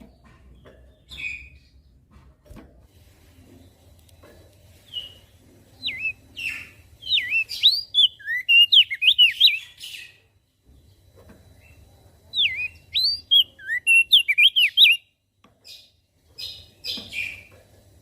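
Opior jambul (crested dark-eye) singing: two bursts of rapid, swooping twittering notes, each a few seconds long, with a few single call notes before and after.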